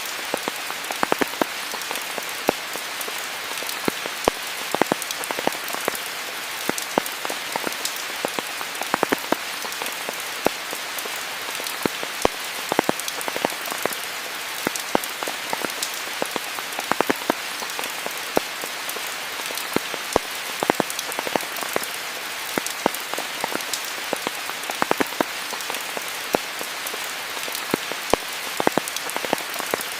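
Steady rain falling in a rainforest, a continuous hiss with many distinct close drops striking leaves and surfaces.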